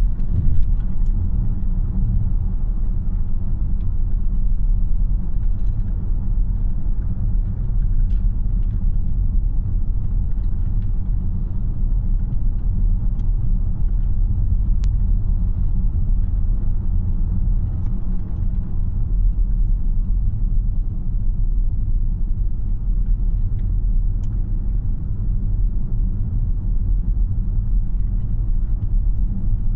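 Steady low road and tyre rumble inside the cabin of a 2026 Tesla Model Y AWD on the move, with a few faint clicks.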